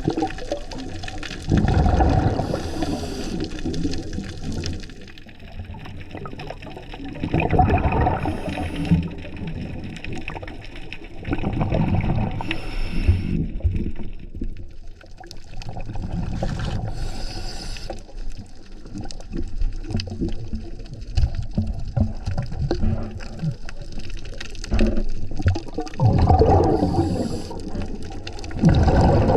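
Scuba regulator breathing recorded underwater: bursts of bubbling exhaust, each with a short hiss, every few seconds over a low rumble of moving water.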